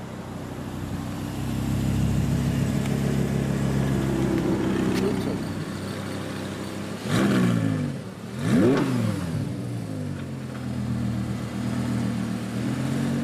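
A 2015 Audi R8 V10 Plus's 5.2-litre V10 idles steadily, then is blipped twice about halfway through, the revs shooting up and dropping back each time before settling to idle again.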